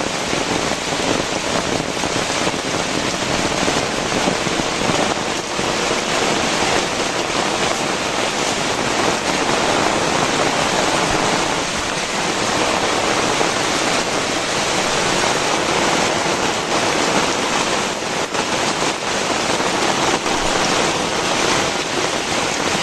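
Heavy rain pouring down steadily, a dense even hiss of downpour with water falling and spattering onto the ground.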